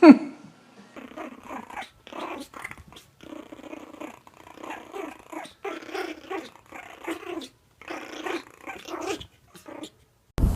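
A dog growling and grumbling in many short runs with brief gaps, after a single loud cry that falls sharply in pitch right at the start.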